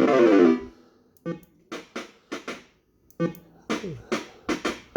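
PCP Club Variety fruit machine's electronic sound effects. A quick falling run of notes opens, then a string of short blips follows in two groups with a brief pause between them.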